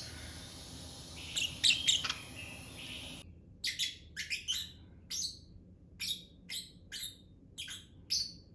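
Small pet parrots (lovebirds) chirping: repeated short, sharp chirps. About three seconds in, the background hiss drops away suddenly, and the chirps then come about twice a second.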